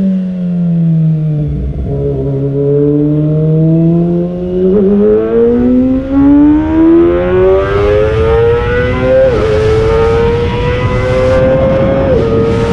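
Kawasaki ZX-25R four-cylinder engine under a rider. The revs drop over the first couple of seconds, hold low, then climb hard in a high-pitched rising wail. Quick upshifts break the climb about nine seconds in and again near the end.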